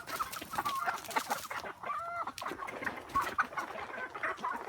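A flock of native chickens clucking and calling, with many short clucks and a longer drawn-out call about two seconds in.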